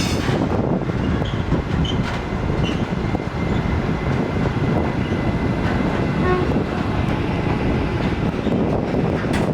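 Train running along the track through the station with a steady, loud rumble of wheels on rail.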